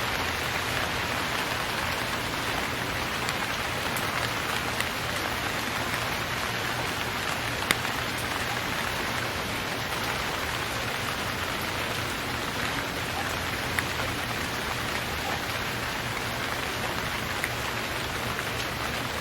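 Steady rain falling, an even hiss with a few sharper drop hits standing out now and then.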